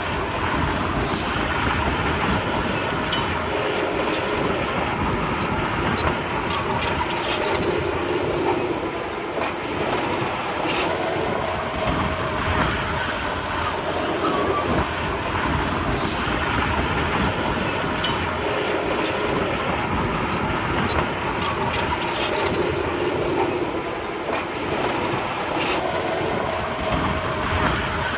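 Komatsu D31P crawler bulldozer at work: a steady diesel engine drone with the steel tracks clanking, sharp metallic clanks scattered through it.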